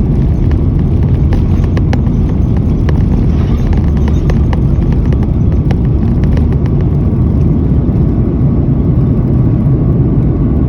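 Jet airliner taking off: a loud, steady low rumble of engines at takeoff thrust, with scattered sharp clicks and rattles in the first half.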